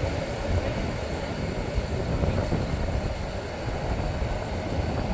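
Bernina line train running on the rails: a steady low rumble with no clear breaks.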